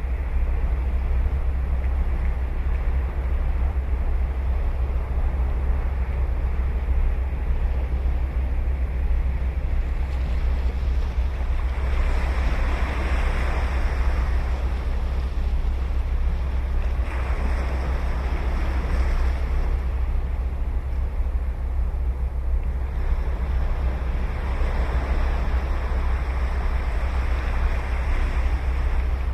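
Ocean waves breaking and washing up a beach, swelling in about three times, over a steady low wind rumble on the microphone.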